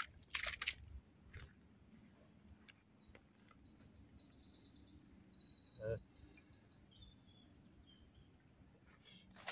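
A small songbird singing faintly: a run of short, high notes that jump between different pitches, starting about three seconds in and going on almost to the end. A couple of short knocks come just after the start.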